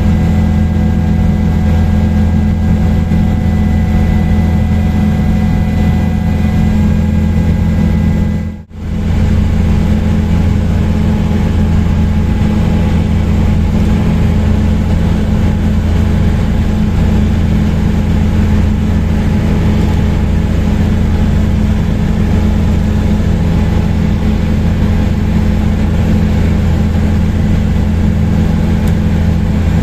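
Helicopter in flight: steady engine and rotor drone with a strong low hum and fainter higher whines, briefly cutting out about eight and a half seconds in.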